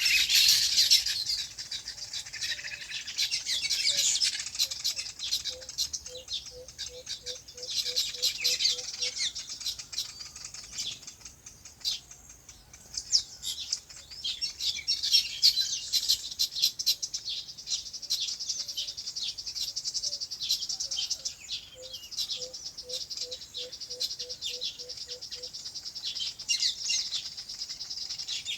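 A dense chorus of many small birds chirping and twittering without a break. Twice, a run of about ten low, evenly spaced notes, about three a second, cuts through the chorus.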